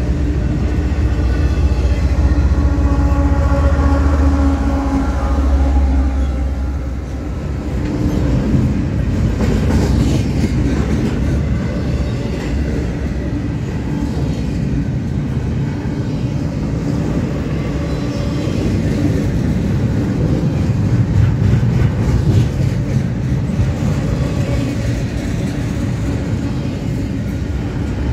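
Double-stack intermodal freight train's well cars rolling past close by: a loud, steady rumble and rattle of steel wheels on the rails.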